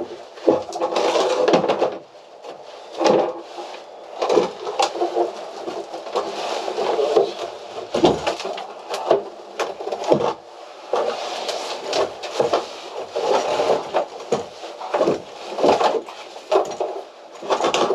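Wooden interior fittings around a boat's sink being worked loose by hand: irregular knocks, clunks and scrapes of wood, with no steady tool noise.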